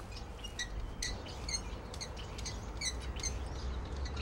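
Small birds chirping, many short high chirps scattered through, over a faint steady low background.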